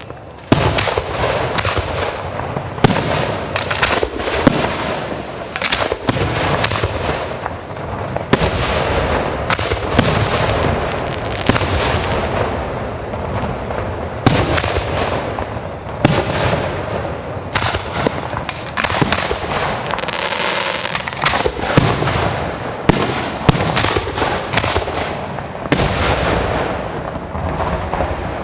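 Aerial fireworks display: a dense, unbroken run of shell bursts and bangs with crackling in between, many overlapping.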